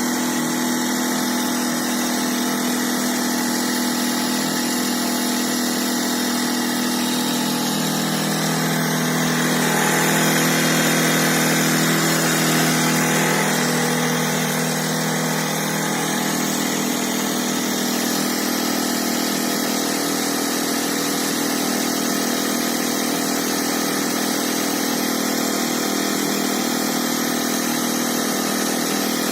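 Electric air pump running with a steady hum and rush of air as it inflates an inflatable boat through a hose.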